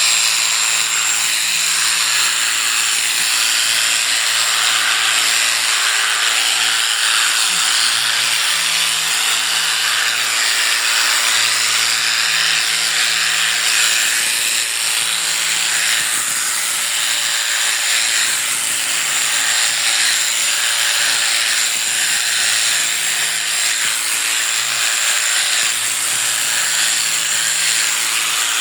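Electric sheep-shearing clippers running steadily as they cut through a sheep's wool.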